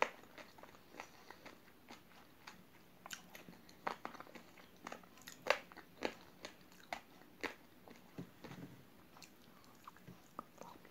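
Chewing raw, uncooked rice grains stuck to soft jelly cubes: irregular small crunches and clicks as the hard grains crack between the teeth. Near the end comes a bite into the next jelly cube.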